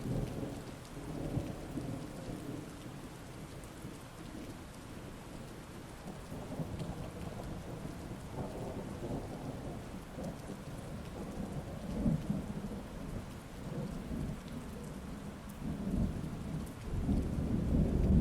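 Heavy rain falling steadily while thunder rumbles over it in several rolling swells, the loudest building near the end.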